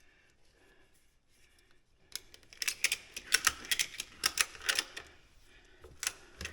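Ratchet-strap buckle being cranked tight: a quick run of sharp metal clicks starting about two seconds in, with a few more clicks near the end as the strap is cinched down.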